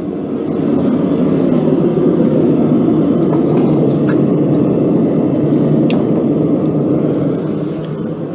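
Blacksmith's forge running with a steady, deep rumble while the workpiece reheats between hammering heats. It grows louder about a second in and eases a little near the end.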